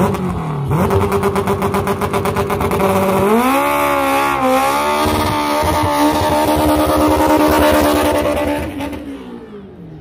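K20-swapped Honda Civic hatchbacks' inline-four engines revving hard for a race start. They stutter at first, then climb to a high, held rev with a brief dip about four seconds in. The sound fades away near the end as the cars pull off down the road.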